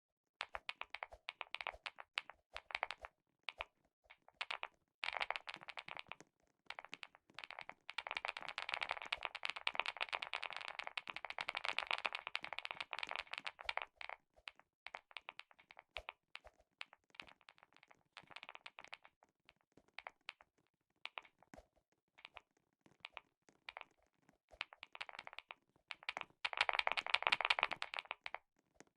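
Typing on a clicky keyboard: rapid key clicks, with two long fast runs of typing, one in the middle and one near the end, and slower, scattered key presses between.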